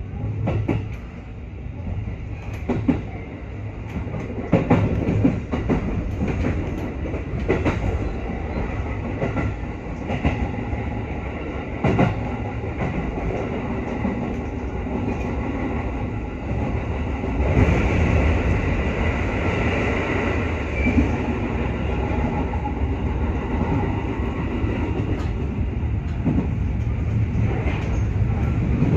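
A JR West 221-series electric train running at speed, heard from inside the car: a steady rumble of wheels on rail with sharp clicks as the wheels cross rail joints. A little past the middle the running noise grows louder and brighter.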